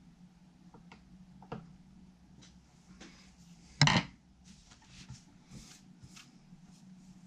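Small tools and parts being handled on a workbench: scattered light clicks and taps, with one louder knock about four seconds in, over a faint steady low hum.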